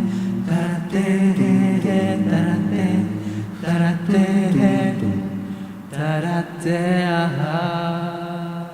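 A cappella vocal group singing in several-part harmony, ending on a held chord that fades out at the end.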